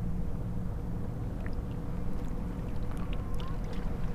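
Wind rumbling on the microphone and water lapping against a kayak hull, with a faint steady hum underneath.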